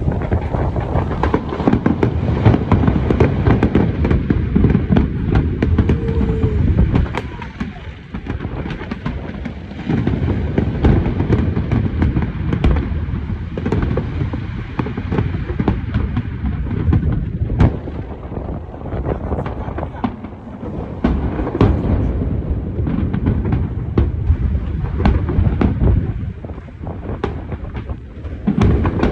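Fireworks display: a continuous barrage of deep booming bursts layered with many sharp crackles. It eases briefly about eight seconds in and again near the end.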